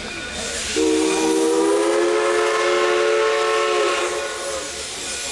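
Steam locomotive whistle blowing one long chord-like blast of about three and a half seconds, starting about a second in and stepping slightly up in pitch, over a steady hiss of steam.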